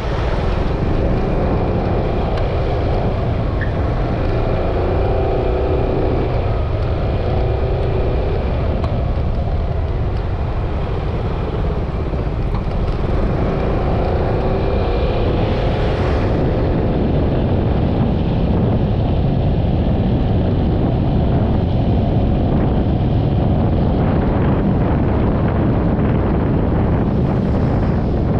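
Yamaha XMAX 300 scooter riding along: wind rushing over the camera microphone with steady road noise, and the engine's note wavering up and down in two stretches.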